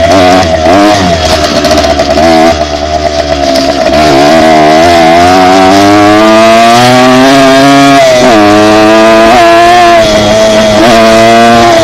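Dirt bike engine running hard under way, very loud. The throttle blips and chops early on, then the revs climb steadily for a few seconds before dropping suddenly, as at a gear change, and settle back to a steady pitch.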